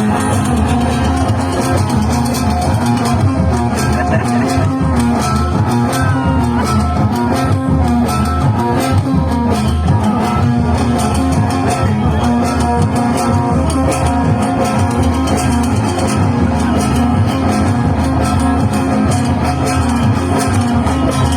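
Loud amplified band music led by plucked guitar, over bass and steady percussion, instrumental with no singing.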